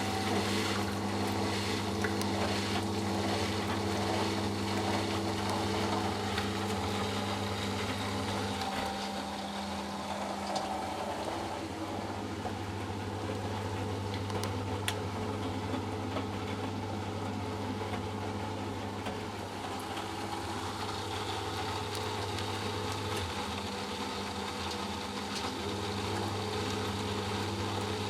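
Eudora Sparmeister 702 washing machine's drain pump running steadily, humming as it pumps out the pre-wash water. The hum weakens twice, about a third of the way in and again near the end.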